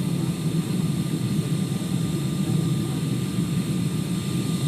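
Steady low rumble of a Boeing 747-400 in descent, heard inside the economy cabin: engine and airflow noise, with faint thin whine tones above it.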